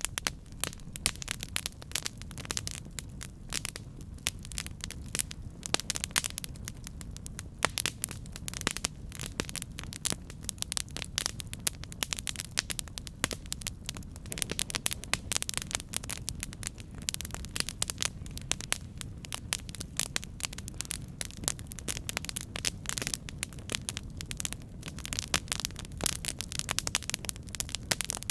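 Campfire crackling: a continuous stream of irregular sharp pops and snaps over a steady low rumble of the burning fire.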